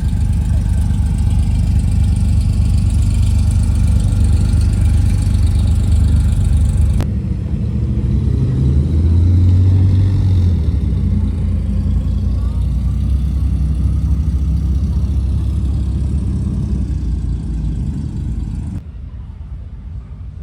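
Car engines running with a deep low rumble. The sound changes abruptly about seven seconds in and again near the end, and a low engine note swells briefly around nine seconds in.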